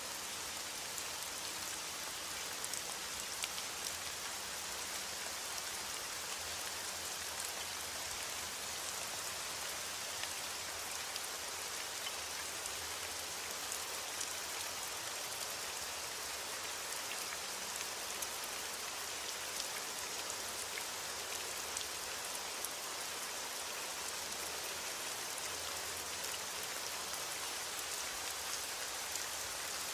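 Heavy rain falling steadily on a window, an even hiss with scattered faint ticks of drops.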